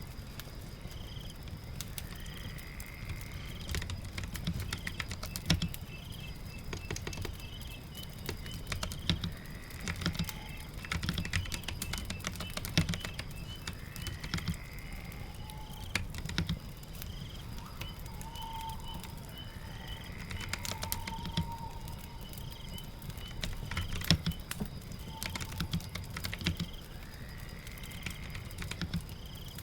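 Computer keyboard typing in irregular runs of key clicks, with birds chirping and trilling repeatedly in the background.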